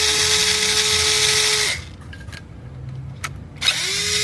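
Power drill with a Torx bit backing screws out of an engine's oil filter housing: the motor whines steadily, stops a little under two seconds in, then spins up again near the end after a single click.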